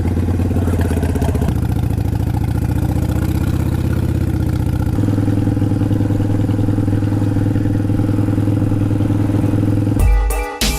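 Motorcycle engine running at a steady idle just after starting; its note changes about halfway through. Near the end it cuts off abruptly into music.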